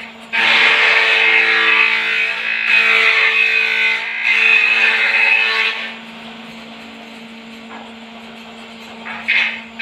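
White-breasted waterhen (ruak-ruak) giving its loud, harsh, repeated croaking call in three long bouts over the first six seconds. It drops much quieter for a few seconds, then starts a new bout near the end.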